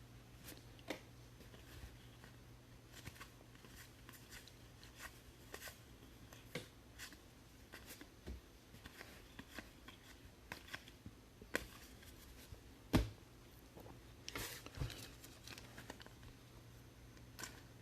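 Baseball trading cards being handled and flipped through by hand: scattered soft clicks and rustles, with a louder tap about thirteen seconds in, over a low steady hum.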